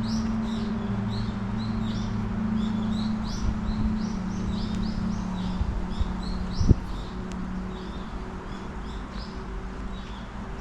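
Small songbirds chirping in quick, overlapping short calls, over a steady low hum, with one brief thump about seven seconds in.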